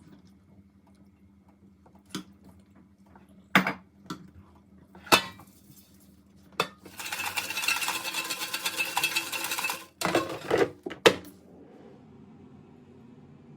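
Dishes and utensils knocking and clinking in a kitchen: several separate sharp knocks, about three seconds of steady rushing, scraping noise in the middle, then a few more quick knocks.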